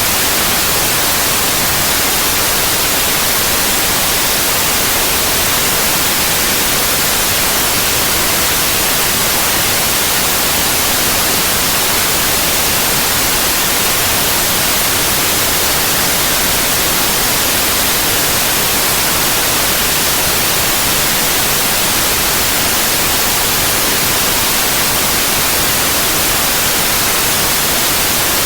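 Synthetic white noise: a steady, loud, even hiss with no changes or interruptions.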